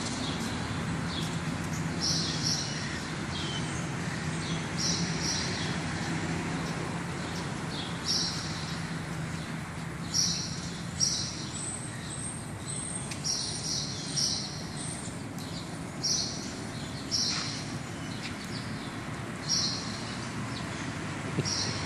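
A bird calling repeatedly: short high chirps, mostly in pairs, every one to three seconds, over steady background noise with a low hum during the first half.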